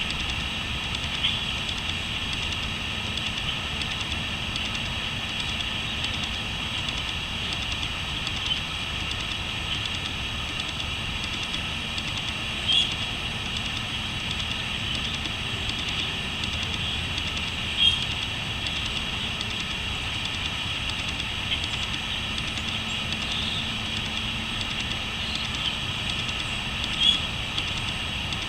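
Steady chorus of crickets trilling, with a few brief louder chirps standing out about four times, over a low rumbling background.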